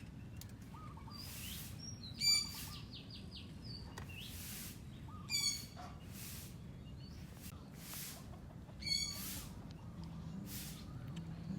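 Several wild birds calling and chirping, with one harsh call repeated three times about three seconds apart, over a steady low outdoor rumble.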